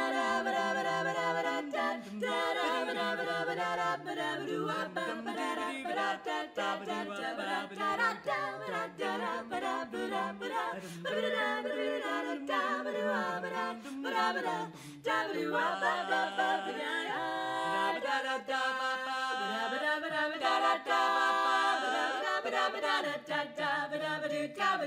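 Women's barbershop quartet singing a cappella in close four-part harmony, the bass voice moving in a walking line beneath the other three.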